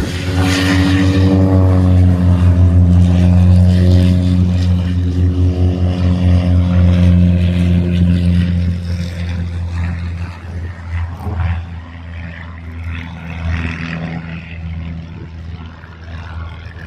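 Single-engine propeller aircraft, an RV-7, making a loud low pass with a steady droning engine and propeller note. The pitch sinks slowly as it goes by, then the sound fades away over the last several seconds.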